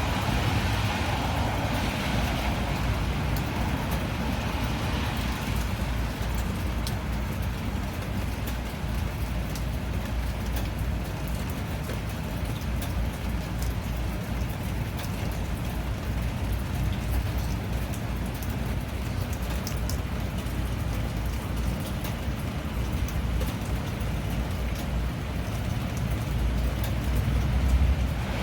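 Steady rain falling, with scattered drop ticks over a constant low rumble, swelling louder near the start and again near the end.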